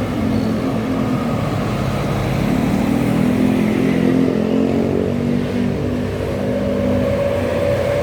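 Yamaha Lexi scooter's single-cylinder engine, bored up to 155cc, running with its pitch rising and falling a little.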